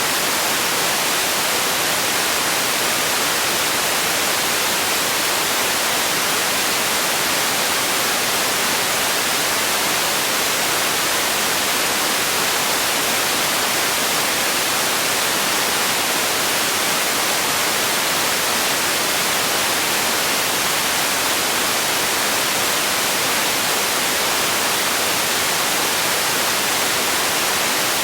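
Steady, unchanging hiss of synthetic noise, bright rather than deep, with nothing else in it.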